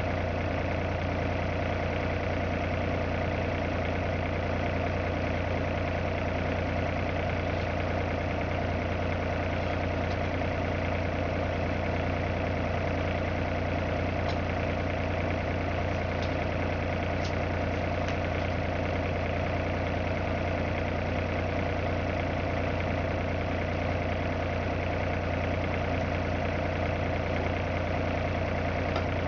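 An engine running steadily at one constant speed, with a strong low hum and a few faint ticks in the middle.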